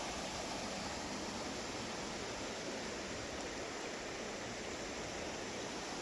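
Running water rushing steadily, an even unbroken roar with no change in level.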